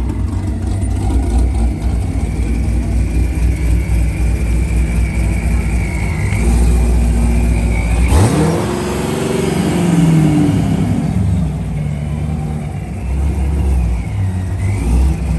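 High-horsepower V8-style car engine with headers idling as the car parks, with one throttle blip about eight seconds in: the pitch climbs sharply and falls back over about two seconds.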